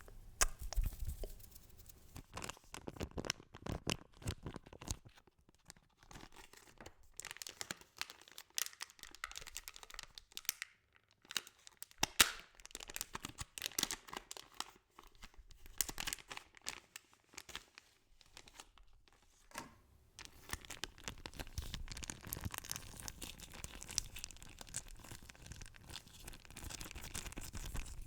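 Close-miked ASMR trigger sounds: dense, irregular crackling and crinkling with short lulls between runs, turning into a steadier crackle in the last third.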